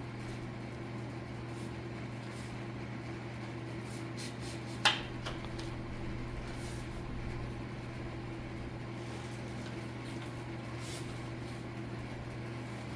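Steady low hum of a small indoor room, with one sharp click about five seconds in and a few faint ticks.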